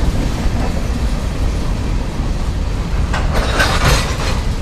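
Train rolling past with a steady low rumble of wheels on rail, and a brief louder rush of noise from about three to four seconds in.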